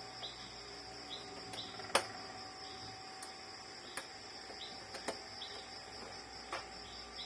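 Crickets chirping steadily in the background, with a few sharp clicks of small parts or a tool being handled, the loudest about two seconds in.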